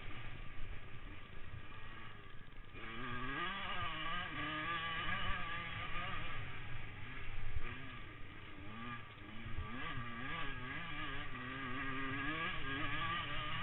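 Motocross bike engines revving up and down as they ride, the pitch rising and falling again and again.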